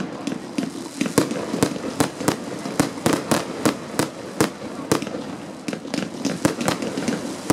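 Fireworks display: a rapid, irregular run of sharp bangs from bursting aerial shells, about three a second, with continuous crackling in between.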